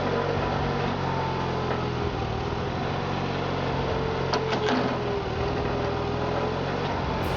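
The motor of a firewood-processing machine running steadily: a low, even hum with a faint whine over it, and a couple of light knocks about four and a half seconds in.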